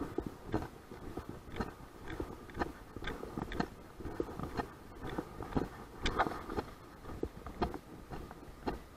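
Footsteps at a steady walking pace, about two a second, over a low rumble.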